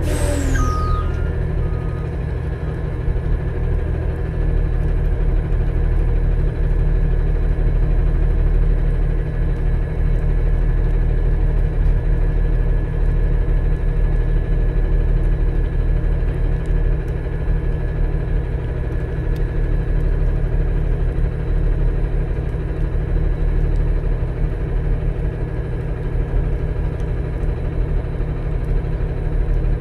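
Diesel engine of an Autocar-Heil front-load garbage truck running steadily at idle, with a short falling squeal right at the start.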